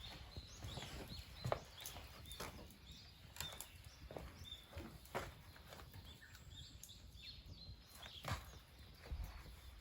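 Wood fire crackling: irregular sharp snaps and pops, several a second, over a low rumble.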